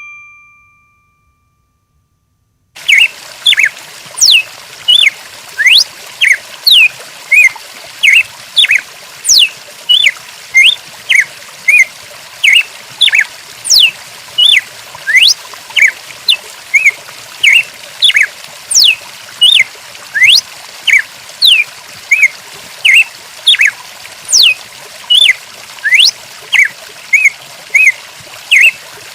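Rapid, high, sweeping bird chirps repeating about twice a second over a steady sound of running water, starting a few seconds in after a chime fades out.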